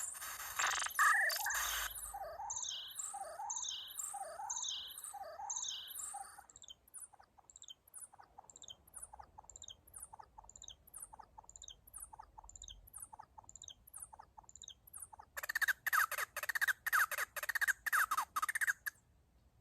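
Korg Volca FM synthesizer playing a sequence of short, bird-like falling chirps that repeat evenly about twice a second. Near the end it switches to a faster, denser run of buzzy pulses for a few seconds, then stops.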